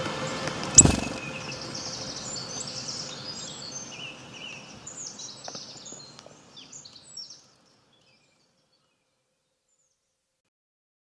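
Outdoor ambience with birds chirping, fading out about seven seconds in; a single sharp thump about a second in.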